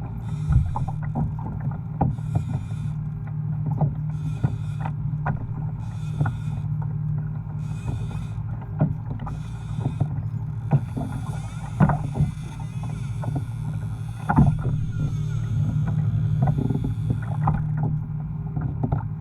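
Pedal kayak being pedaled slowly: a steady low hum under a soft hiss that swells and fades about every one and a half seconds, with scattered knocks and clicks on the hull and gear.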